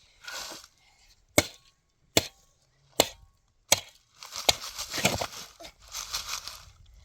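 Four sharp knocks, evenly spaced less than a second apart, then a few seconds of rustling and scraping.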